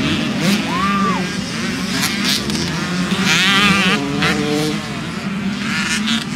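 Motocross bike engines revving up and back down as bikes race past, over a steady drone of other engines.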